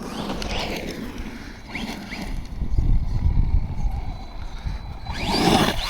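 Electric RC monster truck (Team Associated Rival MT10) manoeuvring on rough ground. Its motor whines up briefly under throttle twice, about two seconds in and near the end, over rumbling noise from tyres and ground.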